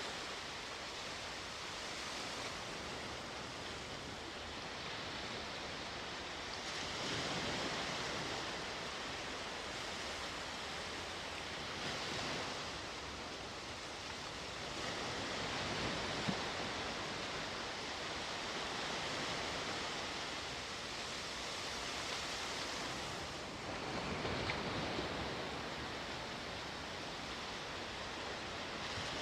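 Sea waves washing onto the shore in a continuous rush, swelling and easing several times as sets come in.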